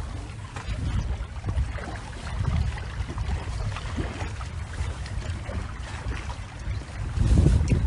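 Moving water lapping and sloshing over a low, uneven rumble, with a swell in level near the end.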